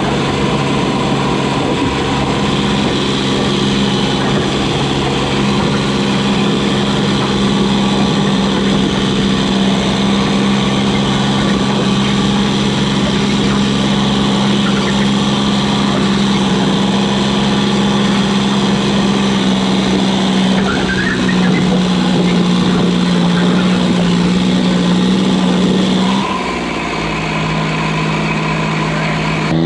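Diesel garden tractor engine running hard at a steady high speed, pulling a stoneboat sled. About four seconds from the end its pitch drops as it throttles back, then holds at a lower note.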